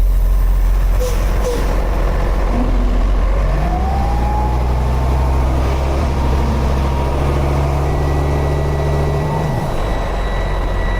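Heavy tow truck's diesel engine revving hard under load as it tries to climb a steep grade. A whine rises in pitch from about three seconds in, the engine is held high, then it drops off near the end as the climb stalls.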